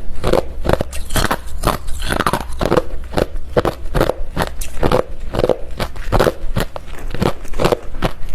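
Refrozen crushed ice being bitten and chewed close to the microphone: a dense run of loud, hard crunches, several a second.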